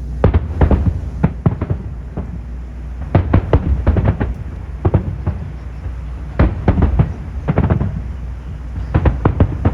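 Aerial fireworks shells bursting in rapid volleys of sharp bangs, in several clusters, over a steady low rumble.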